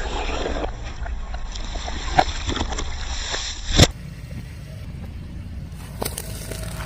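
Car tyre rolling slowly over objects and crushing them, with a low engine rumble underneath. There are several sharp cracks, the loudest a little under four seconds in.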